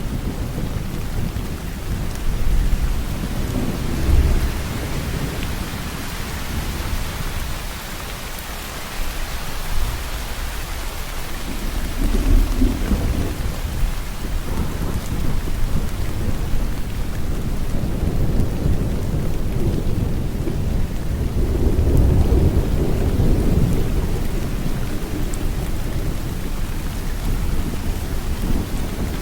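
Steady rain falling, with low rolling rumbles of thunder that swell and fade a few times; the longest rumble comes in the second half.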